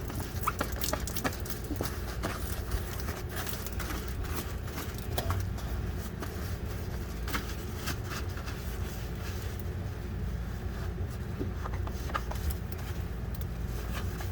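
Scattered small clicks, taps and scrapes from scrubbing and handling parts inside an RV refrigerator, over a steady low hum.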